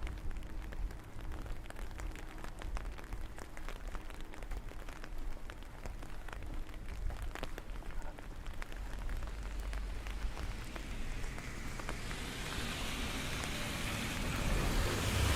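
Rain falling, with many separate drops ticking close by over a steady low rumble. A broad rushing noise swells over the last few seconds.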